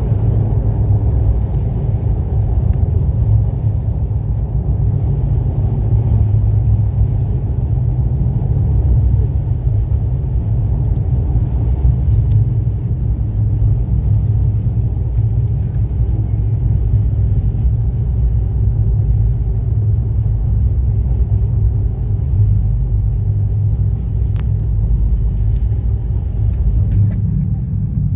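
Steady low rumble of a passenger train running at speed, heard from inside the coach at the window, with a few faint clicks.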